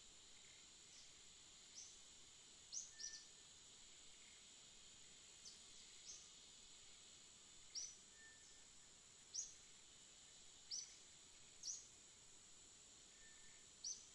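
Faint wild bird chirping: short, high notes, each sweeping quickly downward, coming irregularly every second or so, a few in quick pairs. They sit over a steady high-pitched hiss, with a fainter low whistle now and then.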